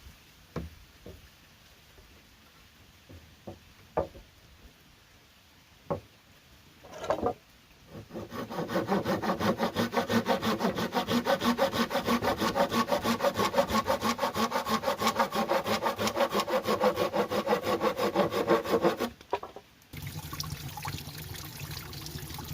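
A few scattered knocks and taps, then a hand saw cutting wood in rapid, even back-and-forth strokes that stop abruptly near the end, followed by a quieter, steadier rubbing sound.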